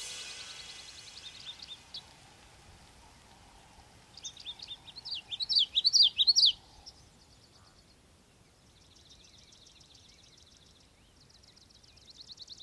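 Bird song over the fading tail of music: a run of loud, whistled notes sliding up and down from about four seconds in, then two rapid high trills, the second near the end.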